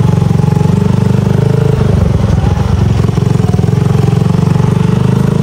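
Small motorcycle engine running loud and close while riding, its note changing about two seconds in as the revs shift.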